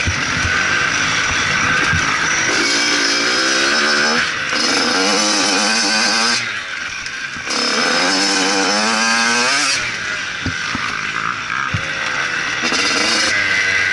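Motocross bike engine running hard on and off the throttle: the pitch rises and falls with the revs, dips briefly about four seconds in, drops away for about a second around six and a half seconds in, then climbs again as the throttle is opened.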